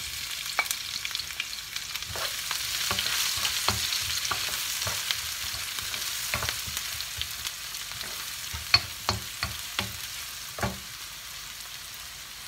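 Chopped garlic, onion and green chilli sizzling in hot oil in a non-stick wok as they go in, stirred with a wooden spoon that knocks and scrapes against the pan. The sizzle comes in suddenly, is loudest a few seconds in, then slowly dies down.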